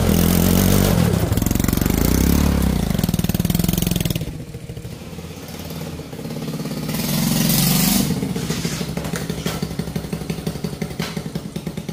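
Motorcycle engine of a homemade two-wheel-drive motorbike running loudly, easing off about four seconds in, revving back up, then dropping about eight seconds in to a lower, evenly pulsing run.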